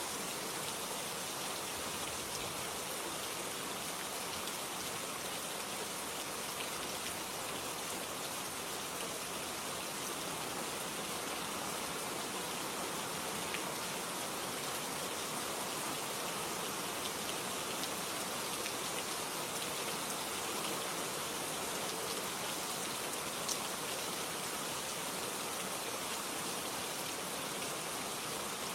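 Steady rain falling, an even patter with an occasional louder drop.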